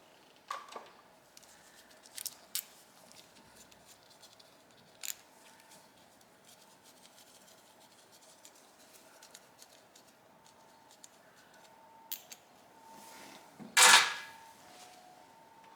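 Scattered small clicks and knocks of hand tools and carburetor parts being handled during bench disassembly, with one louder clatter about fourteen seconds in.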